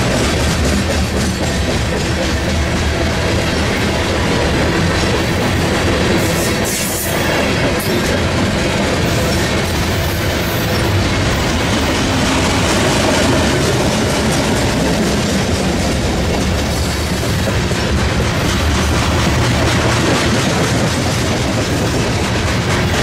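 Loaded or empty coal gondola cars of a freight train rolling steadily past at close range: a loud, continuous rumble and clatter of steel wheels on the rails, with clickety-clack over the rail joints.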